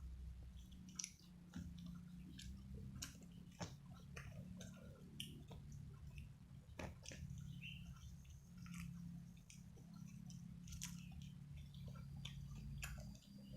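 Close-up mouth sounds of eating: chewing with irregular wet clicks and crunches, over a steady low hum.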